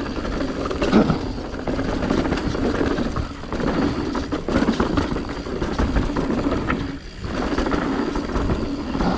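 Mountain bike rolling fast down a rough dirt trail: wind buffeting the microphone over tyre noise and the bike rattling over bumps, with a brief lull about seven seconds in.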